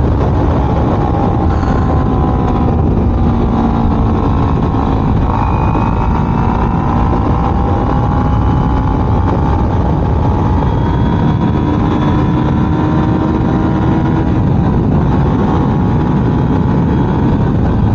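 Kawasaki Ninja 300's stock parallel-twin engine running, its pitch rising and falling slowly, under a loud steady rushing noise.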